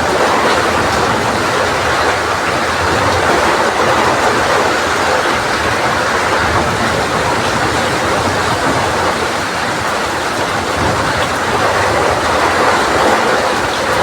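Heavy rain falling steadily, with strong wind, making a loud, even rushing noise.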